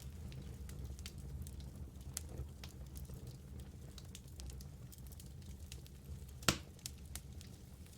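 Wood fire burning in a fireplace: a low steady rumble of flames with scattered small crackles, and one loud pop about six and a half seconds in.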